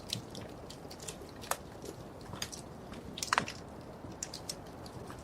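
Wood fire crackling in a fireplace: irregular sharp pops and snaps over a low steady hiss, with a quick cluster of louder pops about three seconds in.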